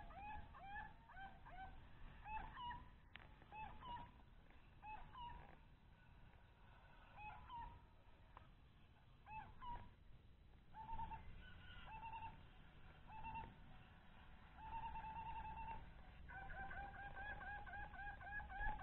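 A bird calling, faint: fast runs of short, clear, bent notes, about four a second, at the start and again from about two-thirds of the way in, with scattered single calls and a few short trilled notes between.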